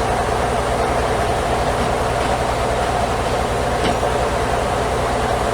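Sawmill machinery running steadily: a constant drone with a held mid-pitched whine over a low hum, with no change in pitch or level.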